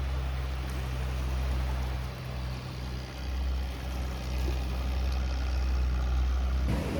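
An engine idling: a steady low hum under a wash of background noise, which cuts off abruptly near the end.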